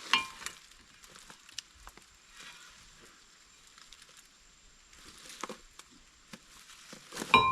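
Two sharp metal-on-metal hammer blows on a screwdriver set in a brake rotor's retaining screw, one at the start and one near the end, each ringing briefly. The screw is seized and will not break loose. Faint rustling and light clicks of handling in between.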